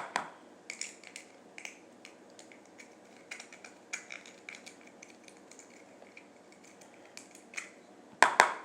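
Intermittent scraping and tapping of a utensil against a container as glue is scraped out, with a few louder knocks near the end.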